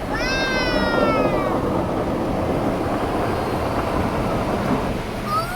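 A cat meowing inside the car: one long meow falling in pitch, about a second and a half, then a shorter rising-and-falling call near the end. Beneath it runs the steady rush of the automatic car wash.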